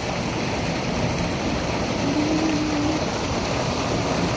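Steady rushing of flowing water, an even noise with no pauses, with a brief faint tone a little over two seconds in.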